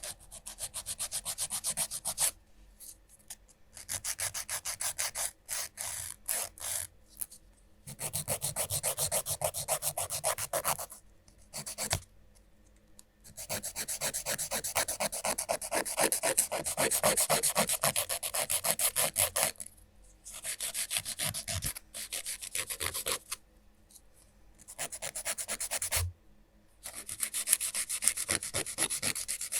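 Nail file rasping across fingernails in rapid back-and-forth strokes. It comes in runs of a few seconds, the longest about six seconds, broken by short pauses.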